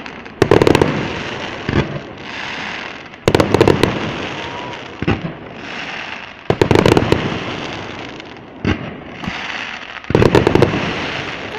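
Aerial fireworks shells bursting in a display: four big sharp bangs roughly three seconds apart with smaller bangs between, each dying away over a second or two.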